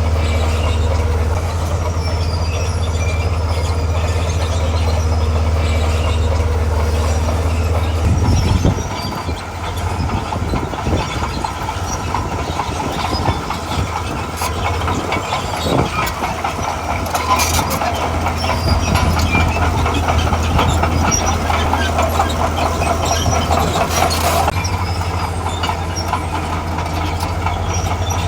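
Diesel engine of a tracked earthmover running with its steel crawler tracks clattering. About eight seconds in, the deep engine drone drops away and a busy clatter takes over; the drone comes back near the end.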